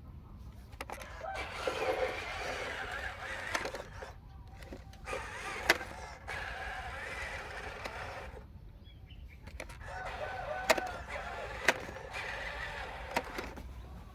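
Small electric motors and plastic gearboxes of radio-controlled toy construction vehicles running in three stretches, with a few sharp clicks.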